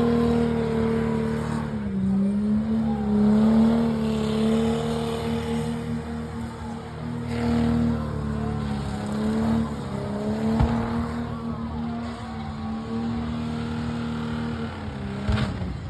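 El Camino burnout car's engine held at high revs on the limiter in a burnout, a loud steady drone that sags briefly twice. Two sharp cracks, one a little past the middle and one near the end.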